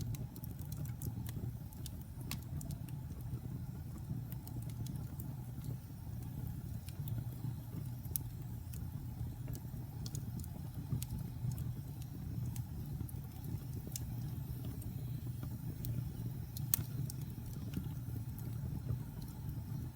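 Wood fire burning in a fireplace: a steady low rumble of the flames with scattered sharp crackles and pops from the damp and pine logs, and one louder pop late on.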